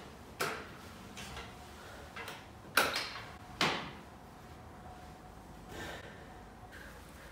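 A run of knocks and clanks from footsteps and a metal folding step stool being climbed onto on a concrete floor, the two loudest knocks coming together near the middle.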